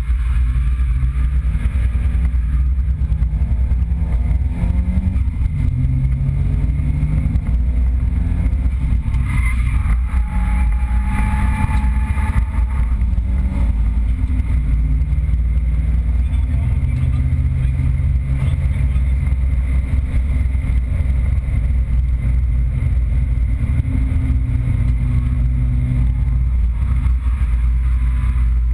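Nissan 200SX drift car's engine running hard, its revs rising and falling continuously, heard from inside the stripped cabin.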